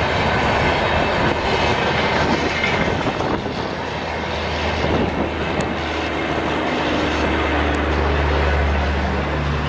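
Passenger express coaches rolling past on the rails with a continuous rushing wheel-and-rail noise. From about halfway through, a steady low drone comes up under it.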